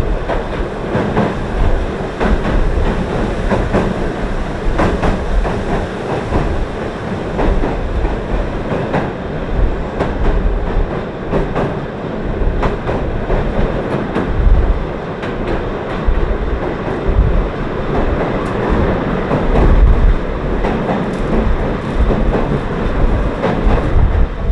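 Ueda Electric Railway Bessho Line electric train running, heard from inside the car: a steady rumbling running noise with the wheels clicking repeatedly over rail joints.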